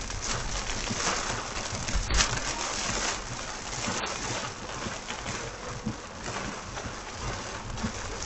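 Very heavy rain falling on the car, heard from inside the cabin: a dense, steady hiss that swells and eases in surges.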